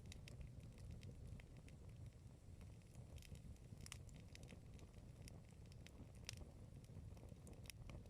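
Wood campfire crackling faintly: irregular sharp pops and snaps over a low, steady rumble.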